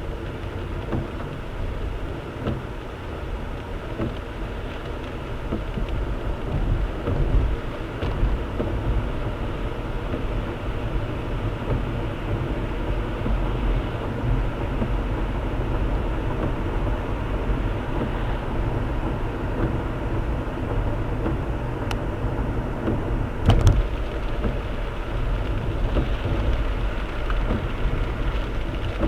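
A car driving through a heavy downpour, heard from a dashcam inside the cabin: a steady rumble of road and engine with rain noise over it. One sharp click comes about three-quarters of the way through.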